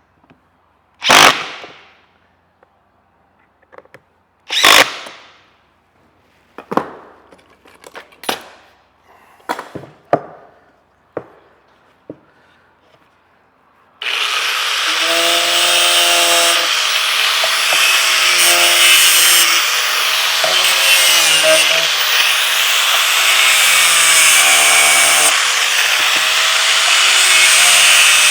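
A few sharp knocks, the first two loudest, then about halfway a power tool starts abruptly and runs steadily under load, its pitch wavering.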